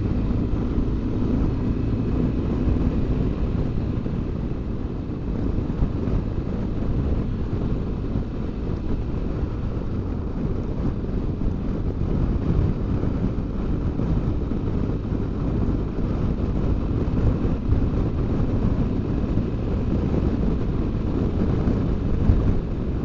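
BMW R1200GS Adventure flat-twin motorcycle riding at road speed: a steady rumble of engine and road noise under wind buffeting on the microphone.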